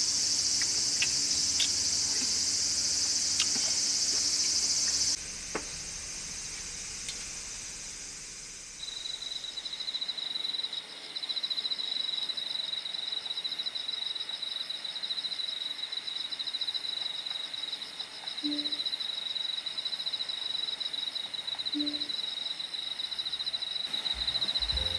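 Crickets chirring at night: a dense, high-pitched insect chorus that changes abruptly about five seconds in, then a single steady, pulsing cricket trill from about nine seconds on.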